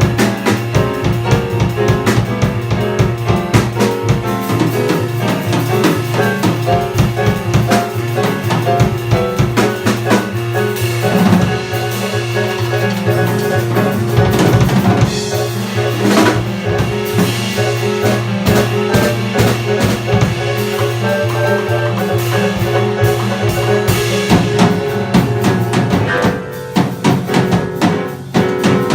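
Live jazz band playing an instrumental number, the drum kit busy and prominent with many snare, rim and bass-drum hits over a steady bass line and pitched chords.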